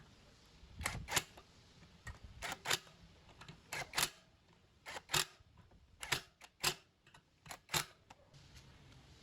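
A series of sharp clicks, mostly in close pairs, about one pair a second, over a low steady background.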